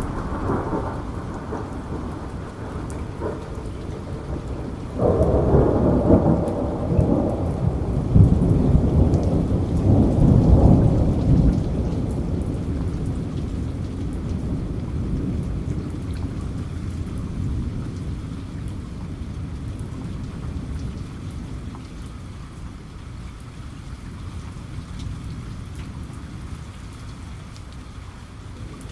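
Steady rain with a rolling thunderclap: the rumble breaks in suddenly about five seconds in, swells for several seconds and fades slowly, leaving the rain hiss alone near the end.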